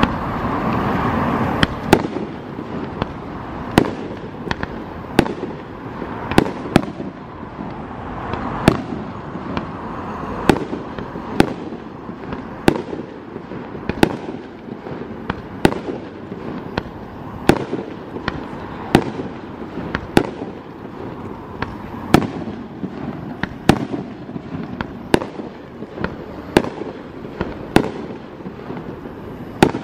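Aerial fireworks shells bursting one after another, about one sharp bang every second or so, over a steady background noise that is louder for the first two seconds.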